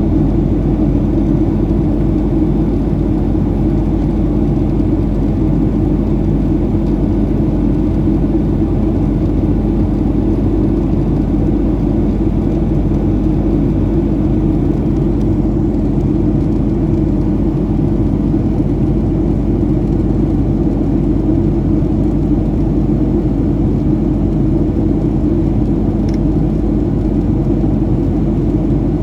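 Steady cabin noise inside a Boeing 737-700: an even low drone of engines and airflow with a steady low hum running under it.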